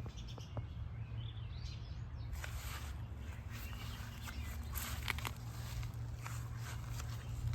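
Outdoor garden ambience: footsteps and rustling as someone walks through the plants, with a bird calling about a second in, over a steady low rumble.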